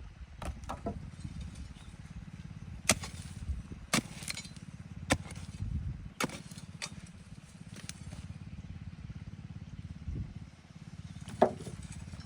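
A small engine running steadily, with sharp knocks about once a second for several seconds and a louder single knock near the end.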